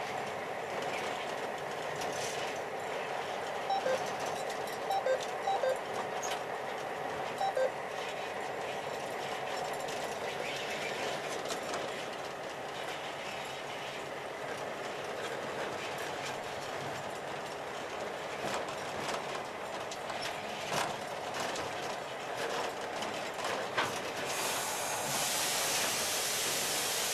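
Freight train rolling along the track, a steady rumble with wheel clicks over the rail joints and a few brief sharp clinks. About three seconds before the end a steady high hiss comes in over it.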